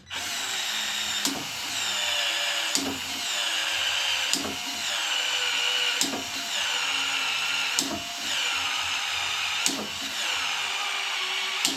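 Handheld power drill running for a long stretch. A sharp click comes about every one and a half seconds, each followed by a whine that falls in pitch.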